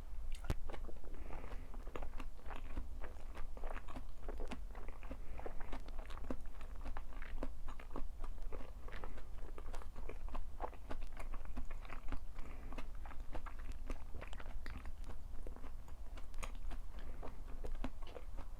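Close-miked chewing and biting of crunchy food, a dense run of small irregular crunches with no break.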